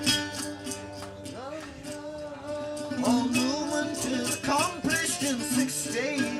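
Live music: a plucked guitar played between sung lines, with sustained tones that slide up and down in pitch.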